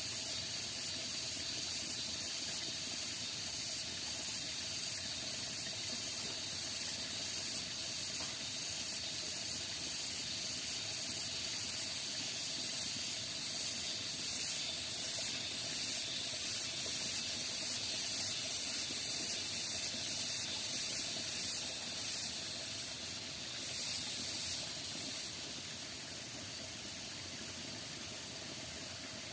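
Rainforest insects calling: a high-pitched chirring that pulses just over once a second over a steady insect drone, then stops about 25 seconds in.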